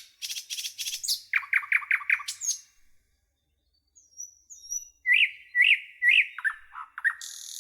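A nightingale singing in separate phrases. It opens with a burst of rapid high clicks and a run of five quick repeated notes. After a pause of about a second come thin high whistles and another run of repeated notes, and a buzzy rattle near the end.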